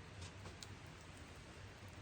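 Quiet background: a faint low hum with a few faint, short ticks.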